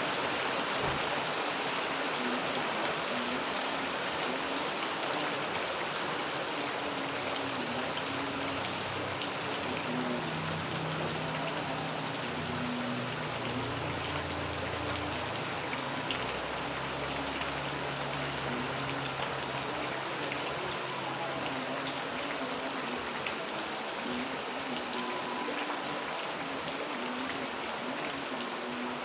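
Steady rain falling, an even hiss flecked with the ticks of drops hitting surfaces. A faint low drone comes in about ten seconds in and fades out about twenty seconds in.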